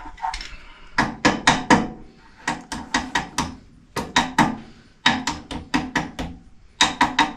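Hammer striking metal in quick runs of blows, about four or five a second, with short pauses between runs, tapping a part of the tractor's lift cylinder assembly into place.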